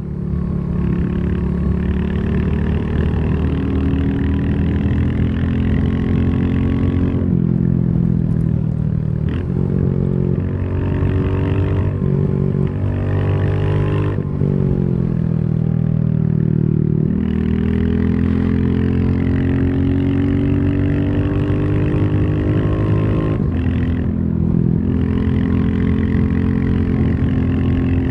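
Royal Enfield Classic 350's single-cylinder engine running under way. The revs drop and climb again several times, with one long steady climb about two-thirds of the way through.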